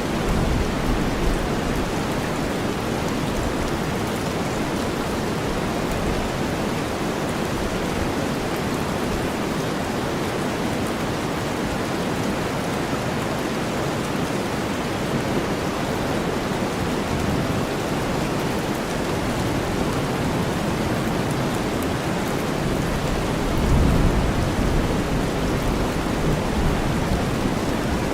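Steady heavy rain blended with deep white noise, an even hiss with weight in the low end. A low rumble of thunder swells briefly near the end.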